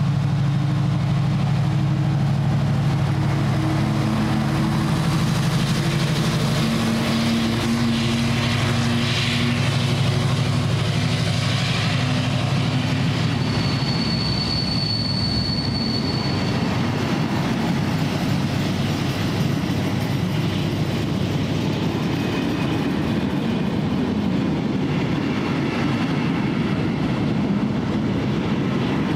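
Diesel train at close range: a steady engine hum for roughly the first half, then the rumble and clatter of wheels on the rails take over as the train runs through. A short high squeal sounds about halfway.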